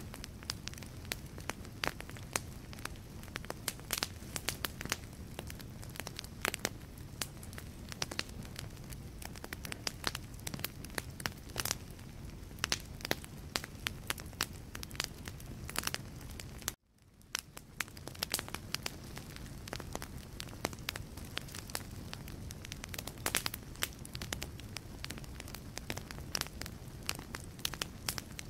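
Wood fire in a fireplace crackling, with many sharp snaps over a low steady rush of flame. About seventeen seconds in the sound cuts out for an instant and fades back in.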